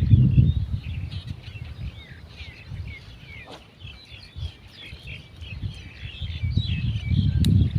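Many small birds chirping busily, short quick calls overlapping throughout. A low rumbling noise sits under them at the start and again near the end.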